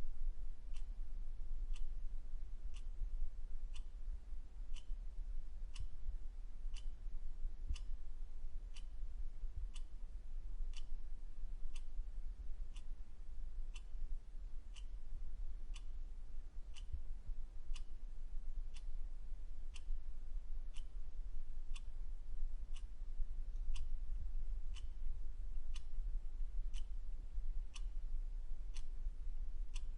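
Clock ticking steadily, about one sharp tick a second, over a constant low rumble.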